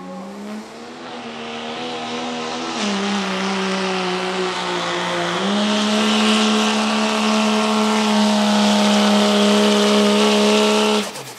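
Competition-modified turbo-diesel 4x4 pickup under full throttle on a pulling run, the engine note held high and steady with a rising turbo hiss as the loudness builds. The pitch sags briefly about three seconds in and climbs back about two seconds later. The engine cuts off abruptly near the end as the throttle is let off.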